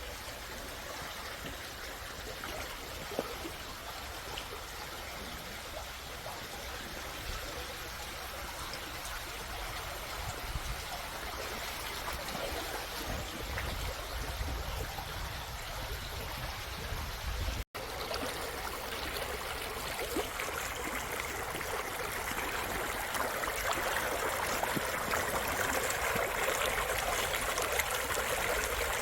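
Mountain valley stream rushing and trickling over rocks in a steady flow. About two-thirds of the way through, a brief break in the sound is followed by louder, brighter water.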